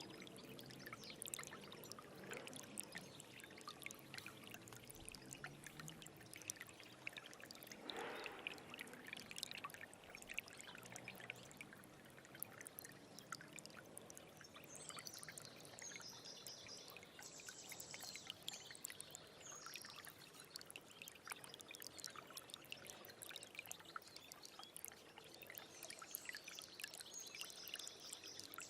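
Small stream babbling and trickling steadily over stones, full of small splashes and gurgles. A high, rapid chirping call comes in about halfway through and again near the end.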